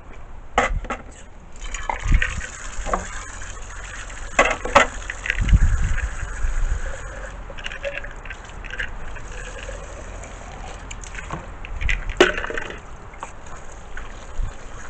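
Sugar-water hummingbird nectar being poured into a cup. The stream runs for several seconds and its pitch rises as the cup fills, with a few knocks and clinks from the containers being handled.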